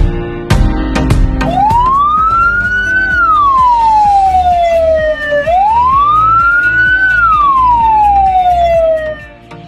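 Siren wail: two slow sweeps, each rising in pitch and then falling away, over music with a steady beat.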